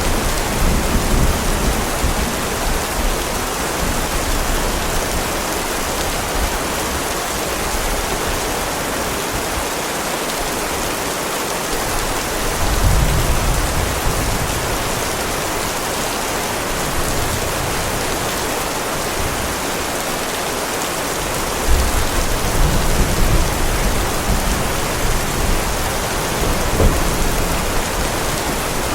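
Heavy rain falling steadily, with low rolling thunder rumbles: one at the start, another about 13 seconds in, and a longer one from about 22 seconds on.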